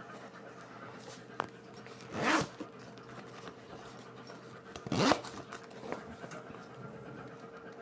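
A zip being pulled twice, two short rasping swishes a few seconds apart, with a small click before the first, over a faint steady hum; most likely the zip of the washed pencil case being worked.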